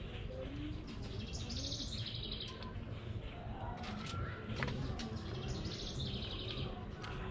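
A small bird sings a rapid, high trill twice, each about a second long and roughly four seconds apart, with a few faint clicks in between.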